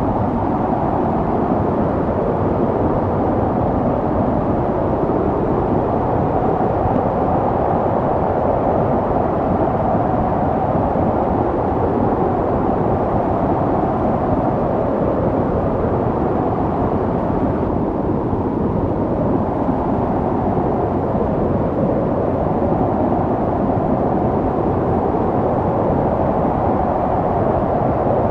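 Snowstorm wind blowing steadily: a dense, low rushing noise without breaks.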